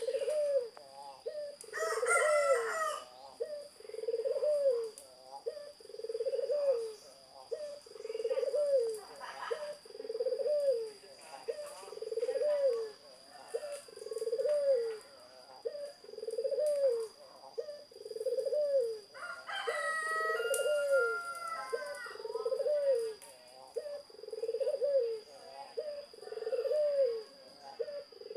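A zebra dove (perkutut) cooing over and over, a low arched coo about every second and a half. A rooster crows once about twenty seconds in, and a shorter fowl call comes about two seconds in.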